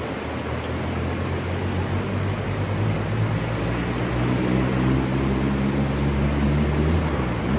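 A distant engine hum, growing louder over a few seconds and easing off near the end, over the steady rush of river water.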